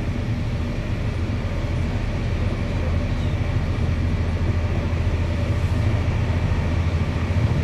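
Electric passenger train running along the line, heard from inside the carriage: a steady rumble of wheels on rail with a faint steady whine, growing slightly louder.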